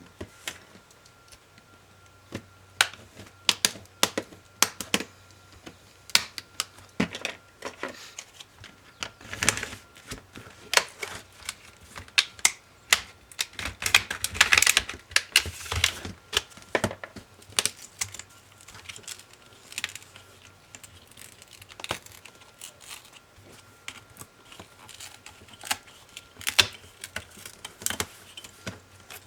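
HP ProBook 450 G5 laptop parts being taken apart by hand: irregular clicks and taps of plastic and metal parts being pried, unclipped, handled and set down, with a denser, louder run of clicks about halfway through.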